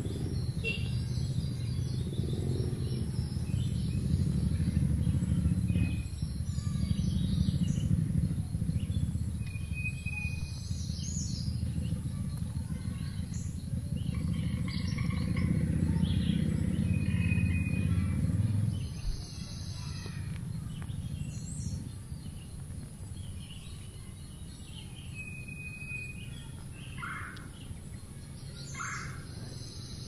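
Birds chirping in short scattered calls over a steady low rumble that drops away about two-thirds of the way through.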